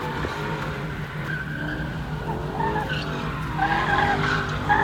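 Tyres screeching as a Hemi V8 muscle car spins donuts, wavering squeals over the steady drone of the engine. The squeal grows louder near the end.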